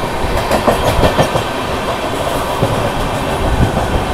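Duronto Express passenger train running at speed, heard from beside its coaches: a steady rushing of wheels and air, with a quick run of wheel clacks over the track about a second in and a few more around three seconds in.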